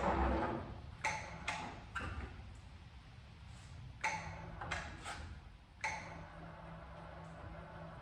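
Sharp metallic clinks with short ringing, about eight of them, the loudest at the very start, as metal parts and tools are handled while an engine is freed from its car. A low steady hum comes in about halfway through.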